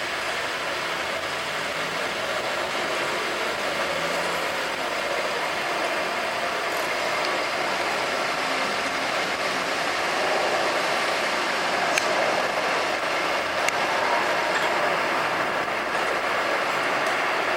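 Street traffic: a steady wash of vehicles and tyre noise going past, with a couple of faint clicks in the second half.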